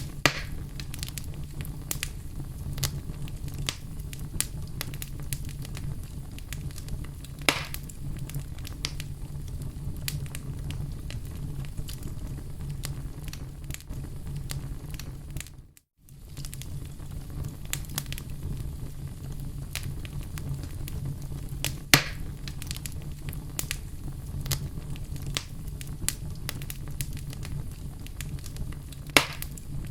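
Wood fire crackling in a fireplace: a steady low rumble of flames with frequent small crackles and a few sharp pops, the loudest about two-thirds of the way through. The sound fades and drops out for a moment around the middle, then comes straight back.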